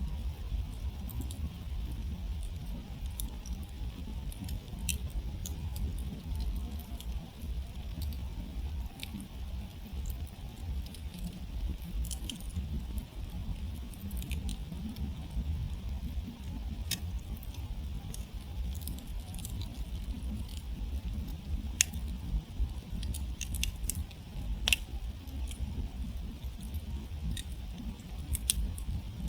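Wood campfire burning down: irregular sharp crackles and pops of burning wood over a low steady rumble, with the loudest pops a little past the middle.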